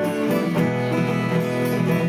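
Acoustic guitars playing an instrumental passage, plucked and strummed chords in a steady rhythm.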